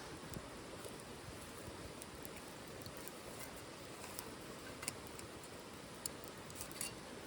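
Wood fire burning in a titanium wood stove: a soft, steady rush of flames with scattered sharp crackles, a louder pop about five seconds in and a few more near the end.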